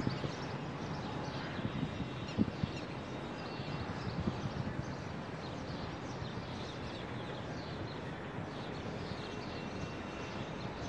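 Birds chirping repeatedly in short falling notes over a steady low rumble, likely wind on the phone's microphone.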